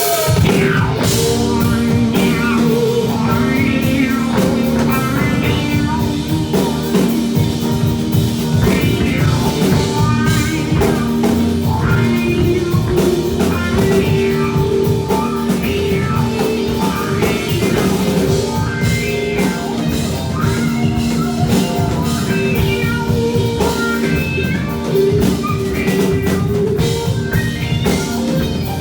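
A rock band playing an instrumental passage, with drum kit and electric guitar.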